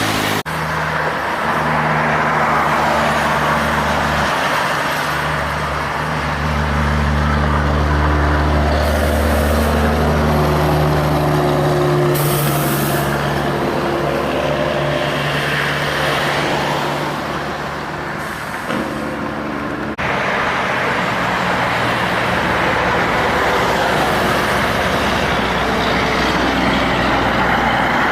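Heavy diesel trucks running and passing one after another, their engine note rising and falling, with a short hiss of air about halfway through.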